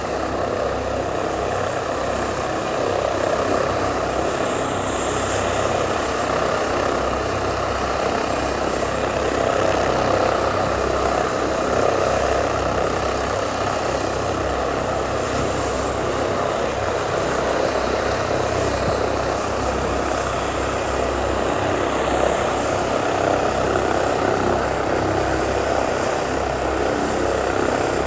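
Helicopter engine and rotors running steadily and loud, a dense rushing noise with a thin high whine held above it.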